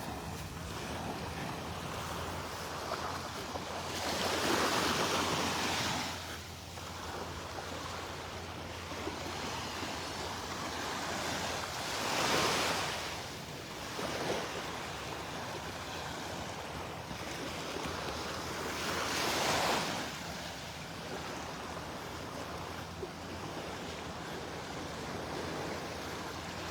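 Gulf of Mexico surf breaking on a sandy beach: a steady wash with three swells of breaking waves, about seven seconds apart.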